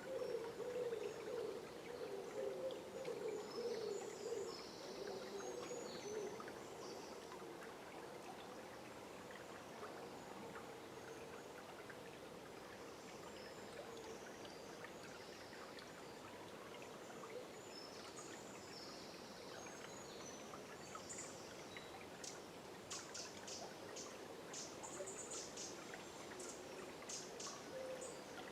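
River water running steadily, with birds calling at high pitch over it; the bird calls turn into a quick run of short chirps in the last third.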